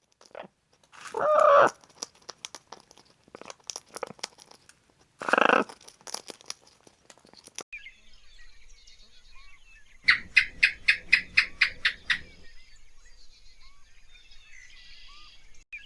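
Domestic chickens calling. Two short calls come among scattered clicks in the first half, then a rapid even run of about a dozen clucks over some two seconds.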